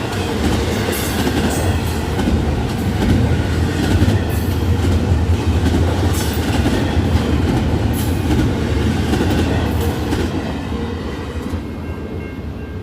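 Freight train of intermodal cars rolling past: a steady, loud rumble of wheels on rail with scattered clicks, dying down near the end.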